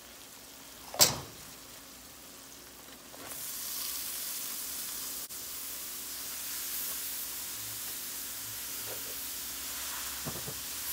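A single sharp knock about a second in, then a steady sizzle from about three seconds in as shredded cabbage is tipped into a kadai of hot oil and spiced onion masala.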